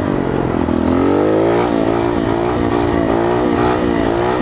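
Coolster 125 pit bike's single-cylinder four-stroke engine revving under way, its pitch climbing over the first second and then rising and falling as the throttle is worked to hold a wheelie.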